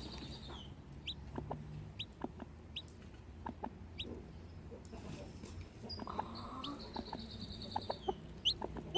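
Newly hatched chicks peeping: short, high, falling peeps every second or so, with a longer trilling call at the start and another from about six seconds in, over a hen's low clucking.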